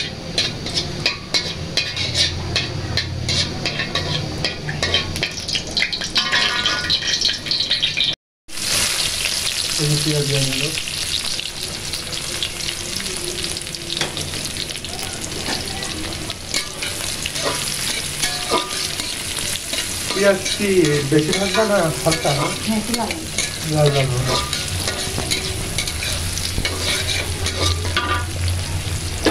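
Whole dried red chillies crackling in hot oil, then, after a momentary break about eight seconds in, sliced onions sizzling in the oil as a spatula stirs them.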